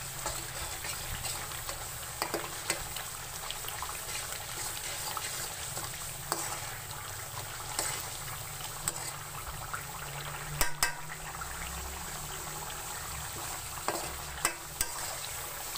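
Tomato and spice masala sizzling in oil in a metal pan while a metal spoon stirs it, the spoon clicking against the pan now and then. The steady sizzle is the sound of the masala cooked down to the point where the oil separates from it.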